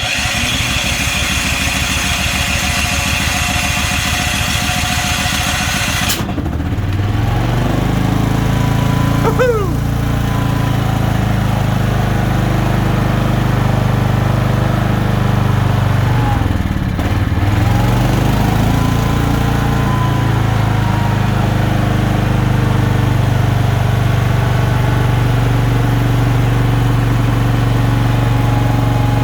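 Cheap portable generator's engine cranked by its electric starter in −15 °C cold for about six seconds, then catching and running. Its note dips briefly past the middle and recovers, and it settles into a steady run.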